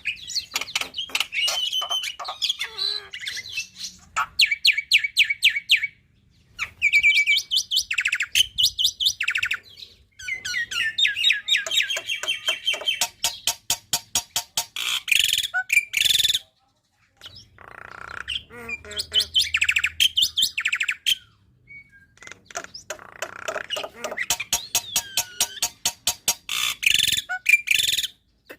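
Black-winged myna (jalak putih) singing a loud, varied song of fast rattling trains of sharp repeated notes and chatter, broken by brief pauses about 6, 10 and 17 seconds in.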